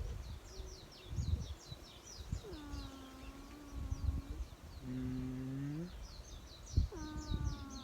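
A domestic cat giving long, drawn-out complaining meows, three of them, each held for one to two seconds. Quick high chirping runs in the background.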